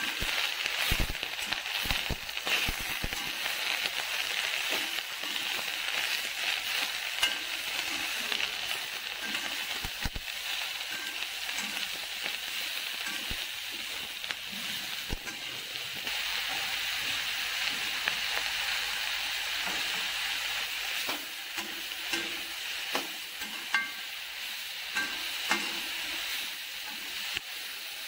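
Shredded cabbage sizzling as it stir-fries in a metal kadai, a steady frying hiss. A metal spatula stirs it, scraping and clicking against the pan now and then.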